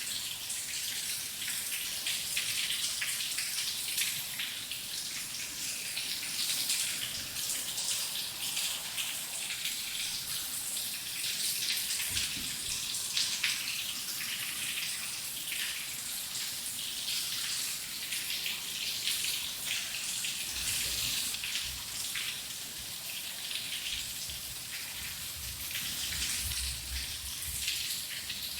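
Steady rain falling, a dense hiss of many drops with individual patters standing out, and a faint low rumble in the second half.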